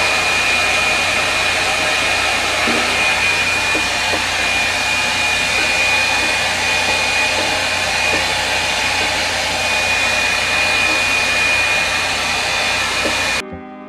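Revlon One-Step hot-air brush dryer running steadily: an even rushing airflow with a thin high whine from the motor. Near the end it cuts off abruptly and music begins.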